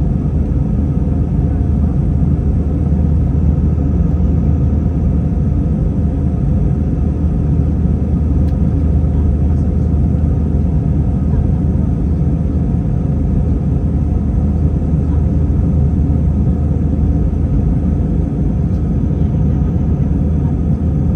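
Steady rumble of jet engines and airflow heard inside an airliner cabin, loud and even, deep-toned, with no change in pitch or level.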